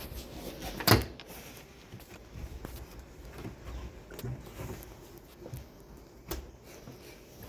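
Work noise of handling tools and car parts: a sharp knock about a second in, another near the end, and light scattered knocks and rustling between.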